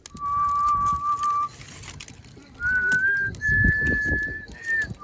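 Someone whistling a slow tune in long, clear held notes: one low note for over a second, a pause, then notes stepping upward.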